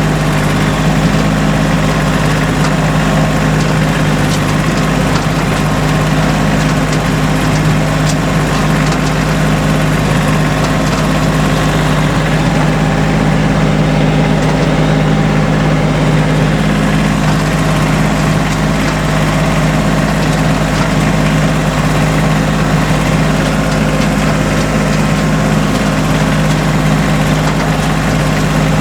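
An engine running steadily at an unchanging speed, a constant low hum with no revving.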